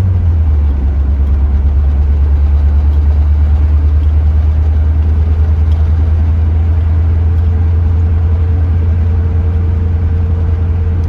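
1982 Chevrolet Corvette's 350 V8 with Cross-Fire Injection running at a steady cruise: a deep, even drone that steps slightly lower in pitch about half a second in.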